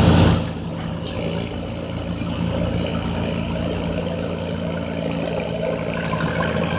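Bolens garden tractor engine running steadily during a tractor pull, a little louder for the first half second before settling to an even drone.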